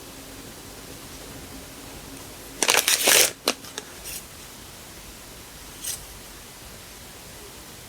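Paper and plastic stationery being handled: a short burst of rustling and crinkling a little under three seconds in, followed by a few light taps and clicks.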